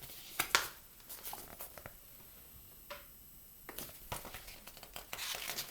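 Picture-book pages being handled and turned: soft paper rustles with a few light clicks, about half a second in and again about four seconds in, and a longer rustle near the end.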